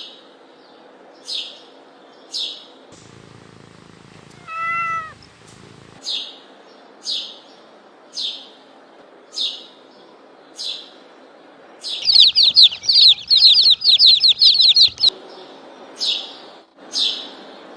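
Small bird chirping: short high descending chirps about once a second, a fast loud trill from about 12 s to 15 s, and a single drawn-out meow-like call near 5 s.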